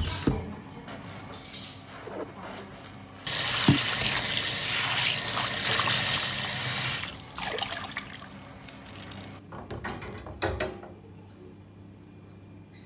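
Water from a kitchen tap running into a sink for about four seconds, with a few light knocks of items being handled before and after.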